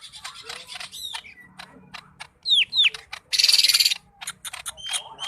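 Green leafbird (cucak ijo) singing a varied, mimicking song. It gives rapid chips and clicks, two quick downward-sliding whistles about two and a half seconds in, then a loud harsh buzzing trill lasting most of a second, and short level whistles near the end.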